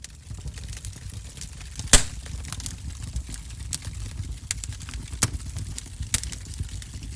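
Wood fire crackling in a fireplace: irregular sharp pops and snaps over a steady low rumble of the flames, with the loudest pop about two seconds in.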